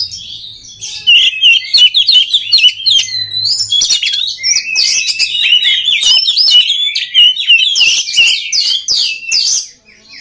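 Oriental magpie-robin (kacer) singing a loud, fast, continuous song of varied chirps, whistles and trills. The song breaks off briefly near the end.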